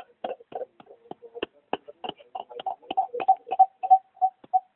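Radio interference: a rapid, irregular run of sharp clicks, joined about halfway in by short beeps at one steady pitch, about three a second.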